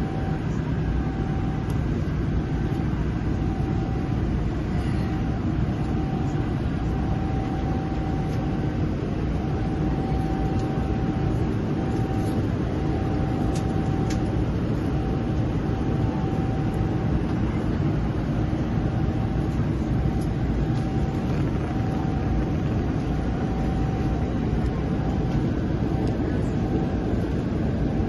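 Airliner cabin noise: a steady, even rumble of engines and rushing air, with a faint tone that pulses on and off.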